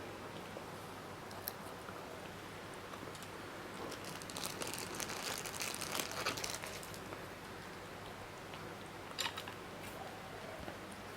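Close-miked eating sounds: crisp crunching and crackling, densest from about four to seven seconds in, with a few single clicks before and after.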